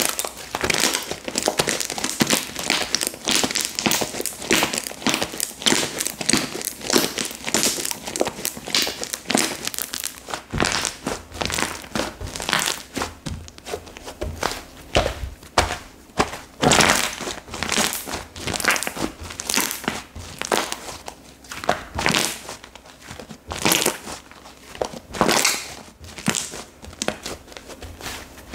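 Slime being squished and pressed by hand, giving crackling, popping clicks. They come thick and fast for about the first ten seconds, then as fewer, louder presses.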